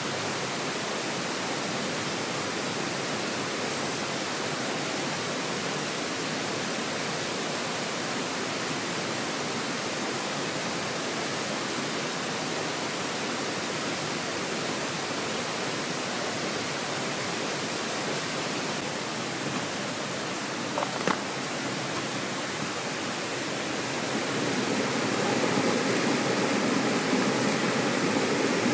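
Steady rushing of a mountain stream, growing louder and fuller over the last few seconds, with a couple of brief clicks about 21 seconds in.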